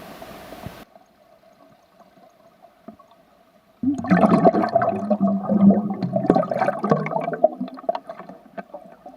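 Water rushing and gurgling: a loud, irregular splashing that starts suddenly about four seconds in and fades out over the last second or so, after a near-quiet stretch.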